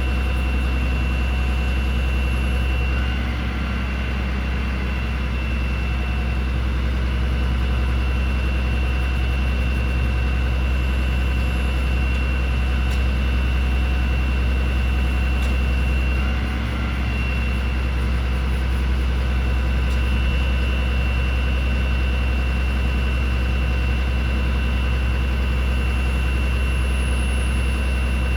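The Cummins ISB 6.7 L turbo-diesel of a Ford F750 bucket truck idling steadily, with a steady high-pitched whine over the engine's low hum.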